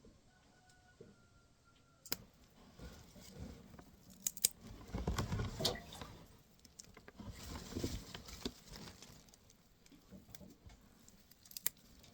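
Carrots being pulled and handled in garden soil: rustling of leafy carrot tops and loose earth in uneven bouts, with a few sharp clicks.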